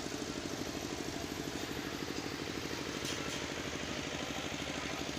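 Train heard from aboard, a steady, rapidly pulsing mechanical rumble.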